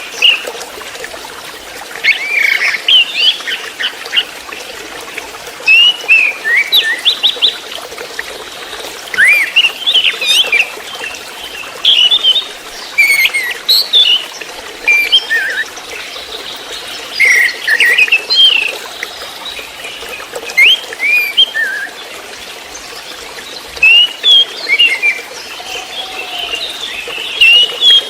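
Juvenile orange-headed thrush (anis merah trotol) singing: bursts of short, quick, varied chirping phrases every second or two, over a steady trickle of water.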